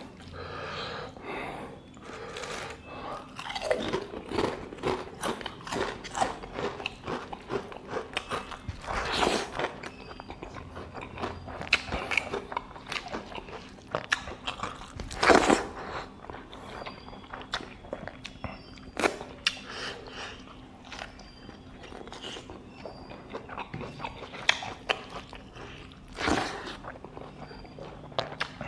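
Close-miked eating: a person chewing and biting mouthfuls of rice and chicken curry, with many short crunches and mouth clicks, one much louder about halfway through.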